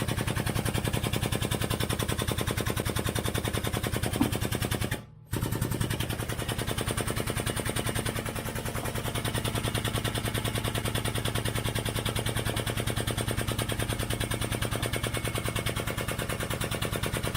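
Impact wrench hammering continuously in a fast, even rattle. It stops briefly about five seconds in, then runs again for the rest of the time.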